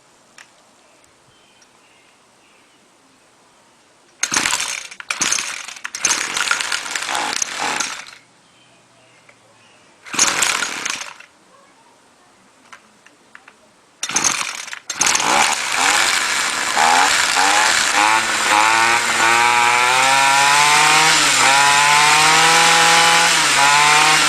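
Homelite Mightylite 26SS trimmer's 26cc two-stroke engine on a cold start with full choke: several sharp yanks of the recoil starter cord with quiet gaps between, then the engine catches about fifteen seconds in and keeps running, its pitch wavering up and down.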